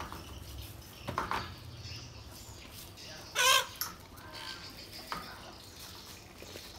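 A bird's short, loud squawk with a wavering pitch about halfway through, with a few brief sharp sounds around it.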